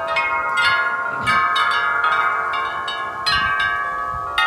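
Wind chimes clanging rapidly in strong, gusty wind, with many strikes overlapping and ringing on into one another.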